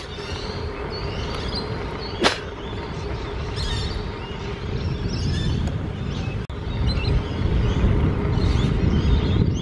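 Steady outdoor rumble, like traffic or wind noise, with small birds chirping over it and a single sharp knock about two seconds in.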